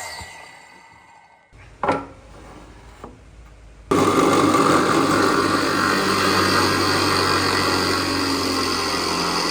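A woodworking power tool spins down, a couple of knocks of wood being handled follow, and about four seconds in a power tool starts and runs steadily at full speed.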